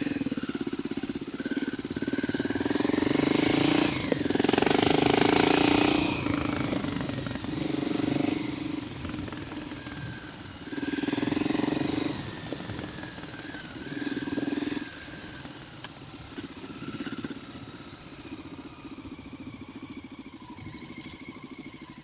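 Dirt bike engine running while being ridden, the throttle opened in several surges: the longest from about two to six seconds in, shorter ones around eleven and fourteen seconds, then a steadier, lower run.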